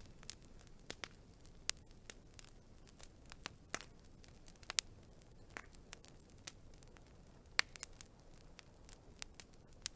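Wood fire crackling: irregular sharp pops and snaps, a few of them louder, over a soft low hiss.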